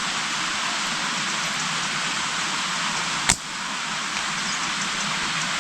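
Light rain falling, a steady even hiss of drizzle. A single sharp click about three seconds in.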